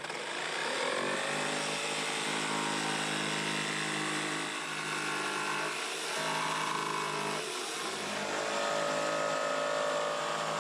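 Electric power saw spinning up, then running steadily as it cuts lengthwise through 4-inch PVC drainage pipe. Its motor pitch shifts partway through as the blade loads.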